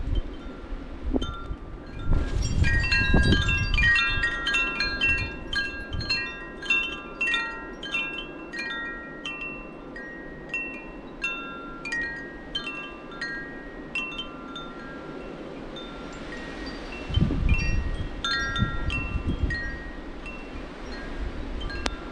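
Wind chimes ringing irregularly in gusty blizzard wind, many strikes at once at first and fewer later on. Wind rumbles on the microphone in two strong gusts, one a couple of seconds in and one near the end.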